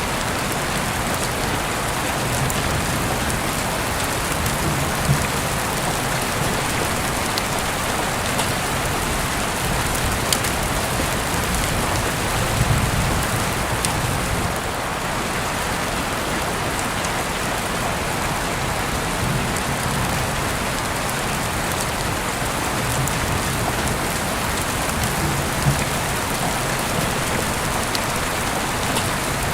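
Heavy rain heard through an open window: a steady dense hiss with sharp drops striking close by now and then, and soft low rumbles swelling and fading every few seconds.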